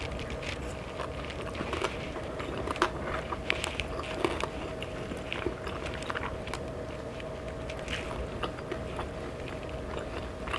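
A person biting and chewing food close to the microphone, with scattered small crunches and clicks, over a faint steady hum.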